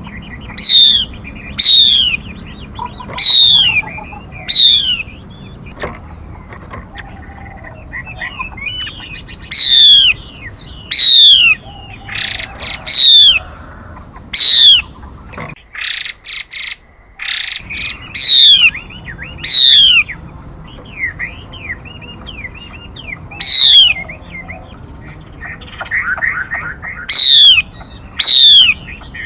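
Female mi bird calling: loud, sharp whistled calls that sweep steeply downward, given singly or in quick pairs at irregular gaps of one to a few seconds, with softer chirps between. A call recording of the kind used as a lure to draw and rouse males.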